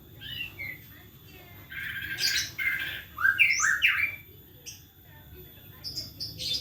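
Songbird singing a varied, mimic-style phrase: short falling whistles early on, then harsh squawking notes about two seconds in, quick rising whistles a little later, and brief high notes near the end.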